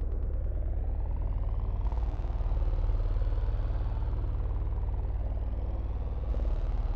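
A large engine running steadily with a deep rumble and a fast even pulse, its pitch slowly rising and falling.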